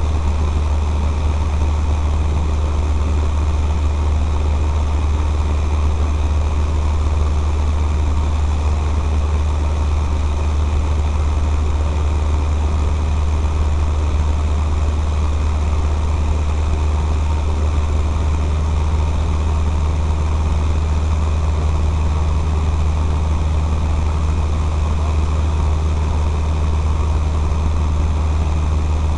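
Cessna 152's four-cylinder Lycoming engine and propeller droning steadily in flight, a deep even hum with no change in power.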